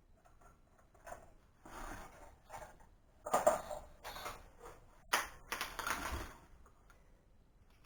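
Irregular clinks, taps and short scrapes of metal parts and tools being handled while a metal-cutting band saw is taken apart.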